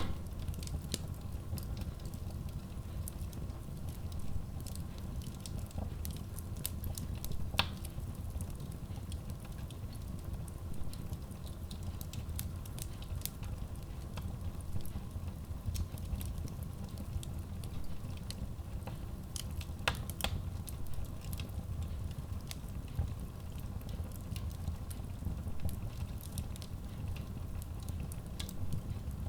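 Wood logs burning in a Kratki Koza K6 steel stove-fireplace: a steady low rumble of flames under frequent small crackles, with two sharper pops about a quarter of the way in and about two-thirds in.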